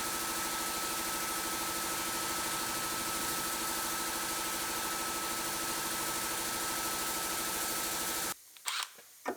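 Steady mechanical drone with a faint constant hum, like shop machinery running; it cuts off suddenly near the end, leaving a few faint clicks.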